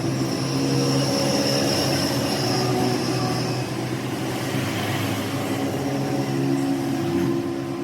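A machine running steadily: a low hum with a faint high whine over a noisy background.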